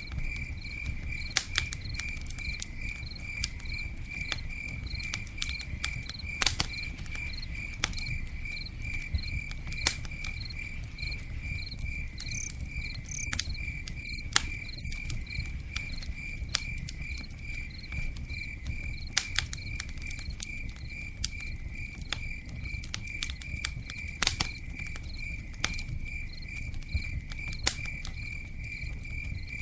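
Campfire burning with a low steady rush and scattered sharp crackles and pops. Behind it a cricket chirps in an even, high-pitched pulse of about two to three chirps a second.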